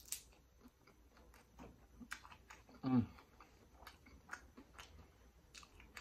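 Close-miked chewing of a crispy air-fried, Flamin' Hot Cheetos-coated prawn: a scattered run of small crunchy clicks and mouth sounds, with a short low hum falling in pitch about three seconds in.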